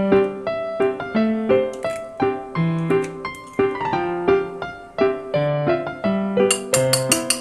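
Background piano music: a steady run of struck notes, each ringing and fading. A quick run of sharp clicks sounds near the end.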